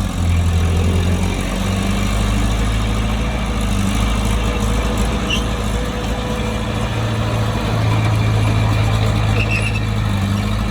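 Heavy diesel engine of earthmoving equipment running steadily at a constant low pitch.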